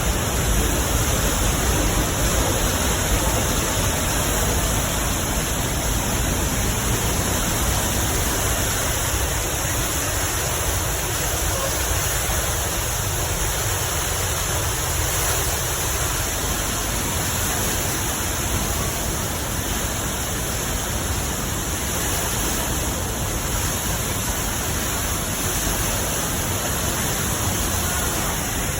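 Steady, loud rush of water pouring over Niagara Falls.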